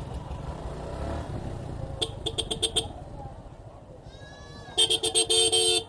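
Goats bleating in rapid pulsed calls, a short burst about two seconds in and a louder one near the end. Under them is the low running of a Suzuki Gixxer 155's single-cylinder engine.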